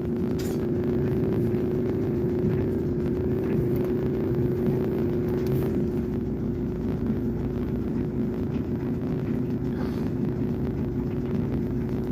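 Clothes dryer running with an odd, steady droning whine over a low rumble. The pitch wavers slightly.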